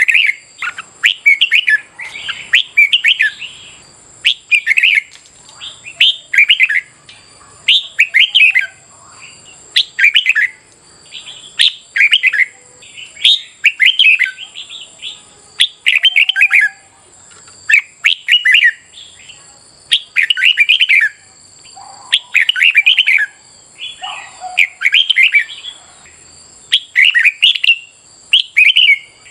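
Red-whiskered bulbuls singing competitively, short rapid warbled phrases repeating about once a second. A steady high-pitched tone runs underneath.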